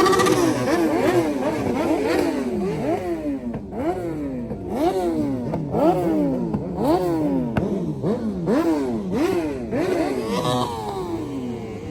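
Car engine revved over and over in quick blips. Its pitch jumps up and falls back a little more than once a second.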